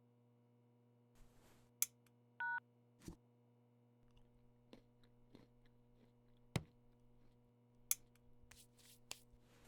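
A few sharp, separate clicks and taps, with one short two-tone electronic beep about two and a half seconds in, over a faint steady electrical hum.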